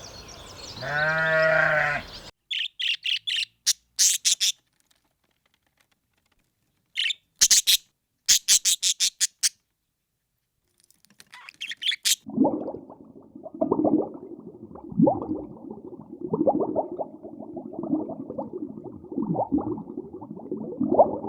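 A single wavering bleat from a sheep or goat ends about two seconds in. Then comes a run of short, high bird chirps and squawks in quick bursts with silent gaps. From about twelve seconds on, a dense low chatter of many overlapping animal calls runs without pause.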